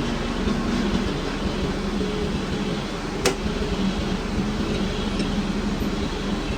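Metal lathe running steadily, a continuous mechanical noise with a low hum. There is a single sharp metallic click a little over three seconds in.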